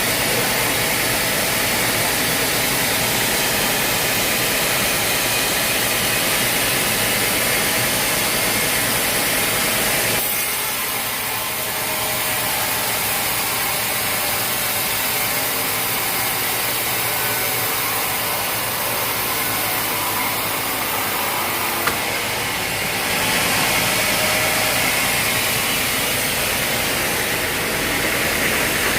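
Sawmill machinery running steadily, an engine-driven saw cutting timber. The noise changes abruptly about ten seconds in and again a little past twenty-two seconds.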